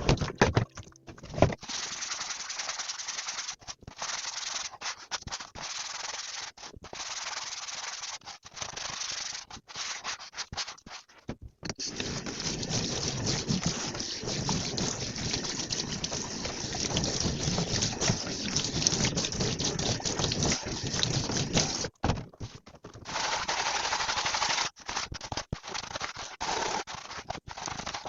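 Kitchen sink work: a tap running in stretches, cut by frequent short pauses, with one long unbroken run in the middle.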